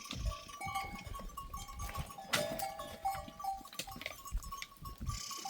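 A herd of goats on the move, the bells on the goats ringing and clinking in short, overlapping tones. A sharp knock comes a little past two seconds in.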